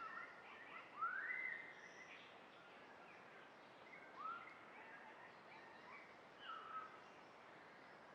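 Faint birds calling in a forest: a few short rising calls, the loudest about a second in, over a quiet steady hiss.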